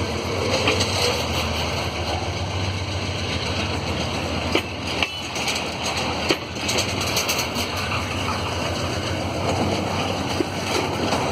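Freight train of empty container flatcars rolling past: a steady rumble of steel wheels on the rails with a low hum and scattered sharp clanks and knocks.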